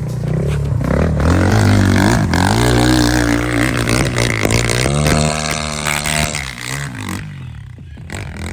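Enduro motorcycle engine revving hard in two long surges, its pitch climbing and holding high, then falling away near the end.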